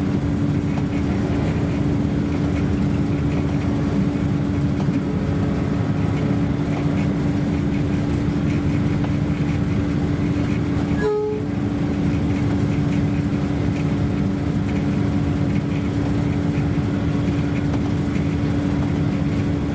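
Train running along the line: a steady rumble with a constant droning tone, briefly cut off a little past the middle.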